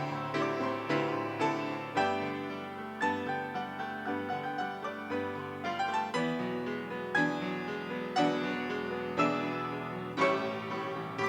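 Piano playing an instrumental passage: notes struck and dying away, with the chords changing about every two seconds.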